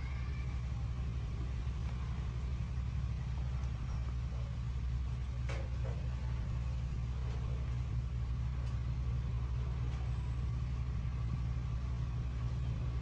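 A steady low hum, with a single faint click about five and a half seconds in.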